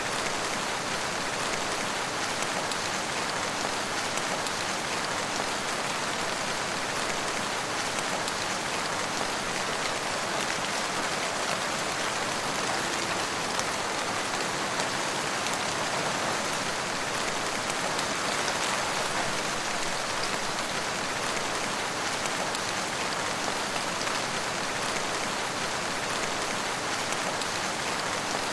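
Steady rain falling, an even hiss with no breaks or changes in strength.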